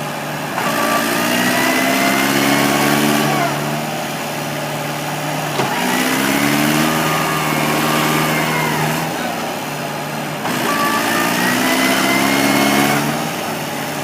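Tractor engine revved hard three times in surges of about three seconds each, pitch climbing then dropping back, as it strains to pull a tractor that is stuck.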